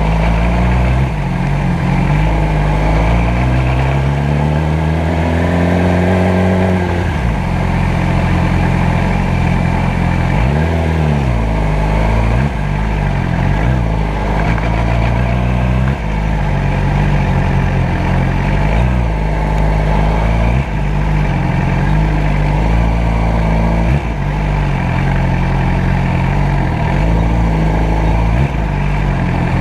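Motorcycle engine running in traffic, its pitch rising as it revs up from about three to seven seconds in, with another brief rise and fall around ten seconds.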